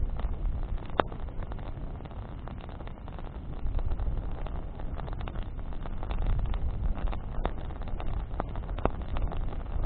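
Campfire of burning branches: a steady low rumble under frequent crackling, with a few sharp pops, the loudest about a second in.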